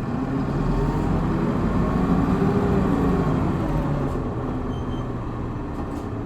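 Hino Blue Ribbon city bus's four-cylinder turbo diesel pulling hard under acceleration, heard from inside the cabin. The engine note climbs for the first two or three seconds, then eases off as the revs drop.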